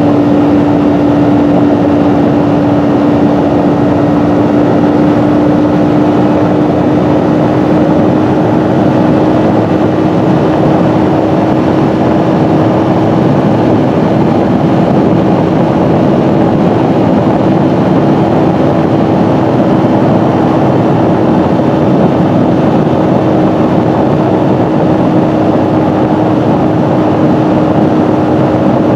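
Kawasaki Ninja 400 parallel-twin engine running at a steady cruise, its drone holding an even pitch that rises slightly a few seconds in, under a constant rush of wind and road noise. The engine has a freshly done valve adjustment.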